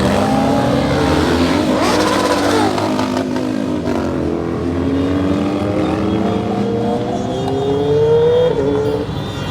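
Several car engines running in slow street traffic, one accelerating with a pitch that climbs steadily over about four seconds. A brief rush of noise comes about two seconds in.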